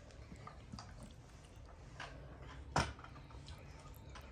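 Close-up eating sounds of someone eating with her hands: soft chewing and wet mouth clicks, with one sharp click about three-quarters of the way in.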